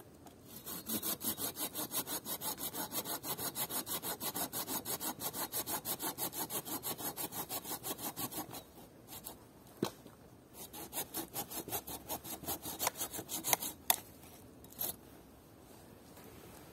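Hand saw cutting wood in quick, even strokes. A second, shorter bout follows a brief pause about halfway, and a few sharp knocks come near the end.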